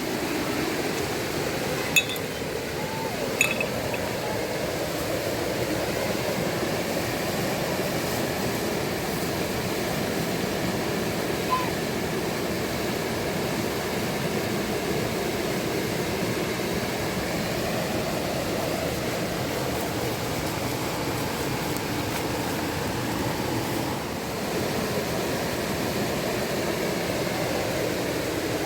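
Steady rush of river water, with two short clinks about two and three and a half seconds in.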